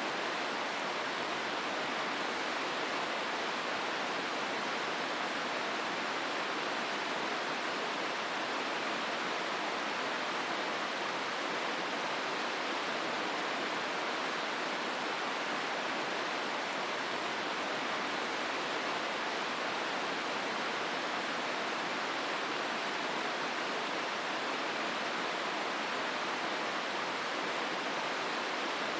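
The Hozu River's water rushing steadily through the gorge, an even, unbroken roar.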